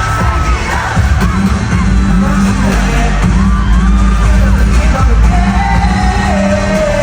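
Live K-pop song played loud through a concert sound system: heavy bass beat with a sung vocal line.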